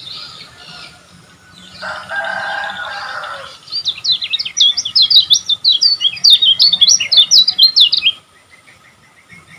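Kecial kuning (white-eye) singing: faint song, then a lower, harsher call about two seconds in, then a loud, rapid run of sharp high chirps lasting about four seconds before it drops away.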